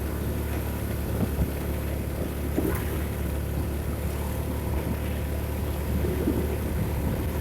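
Vehicle engine running steadily, a low even drone.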